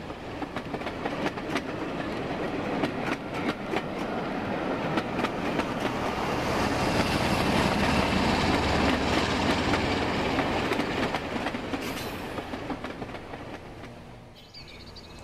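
OO-gauge model of a Class 47 diesel locomotive with its train running past close by, its wheels clicking rapidly over the rail joints and pointwork. The rumble builds to its loudest about halfway through and fades near the end.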